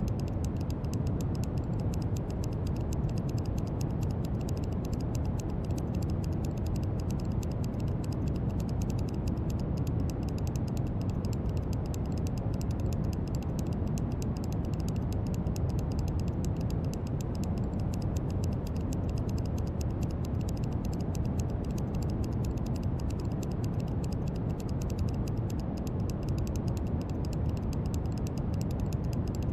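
Steady brown noise: a deep, even hiss heaviest in the low end, with a faint fine crackle in the highs.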